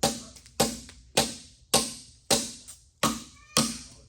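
Hammer tapping metal parts into place during engine assembly: even, sharp strikes a little under two a second, each ringing briefly.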